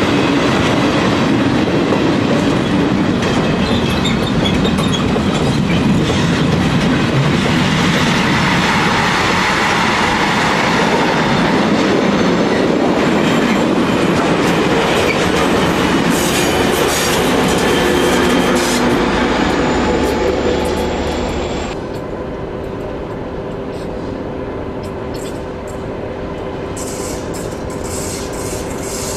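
A freight train of goods wagons rolling past close by, its wheels clattering over the rails with some squeal. About three-quarters through, the sound cuts abruptly to a quieter, steady engine drone from a DB class 232 diesel locomotive coming head-on with a heavy freight train.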